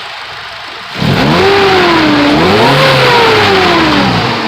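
Nissan KA24DE 2.4-litre four-cylinder, naturally aspirated with a custom 3-inch exhaust, revved from idle: about a second in it jumps up, the pitch climbs, dips, climbs again, then falls back toward idle near the end.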